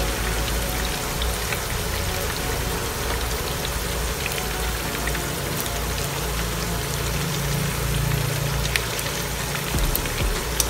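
Chicken pieces frying in oil in a wok, a steady sizzle with scattered crackles and pops.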